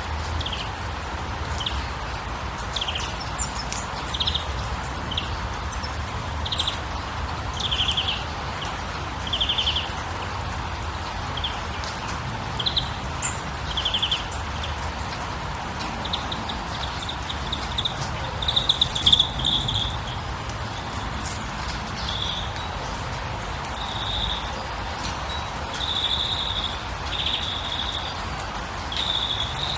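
Songbirds chirping: short separate chirps about once a second, turning into longer, denser twittering phrases about halfway through. Under them runs a steady hiss of water or rain.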